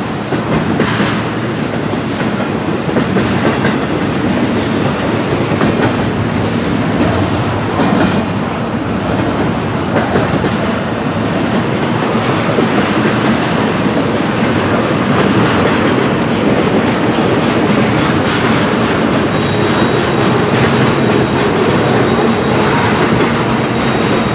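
Intermodal freight cars rolling past: steady noise of steel wheels on rail, with clickety-clack over the rail joints.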